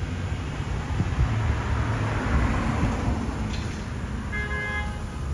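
Road vehicles running with a steady low rumble, and a short vehicle horn toot of about half a second a little past four seconds in.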